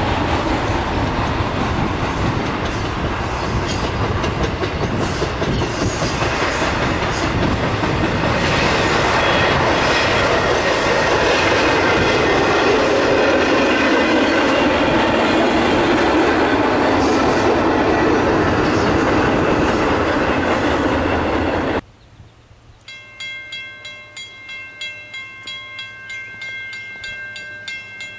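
Freight train of container-laden flatcars rolling past, a loud, steady clatter and rumble of wheels on the rails. After an abrupt cut about 22 seconds in, much quieter ringing with a regular beat, like a grade-crossing bell.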